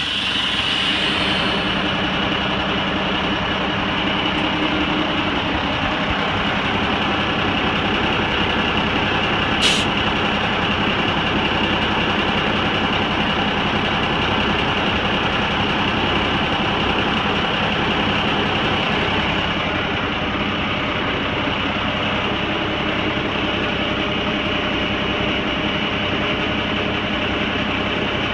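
2000 Mack dump truck's diesel engine running steadily, with a single sharp click about ten seconds in.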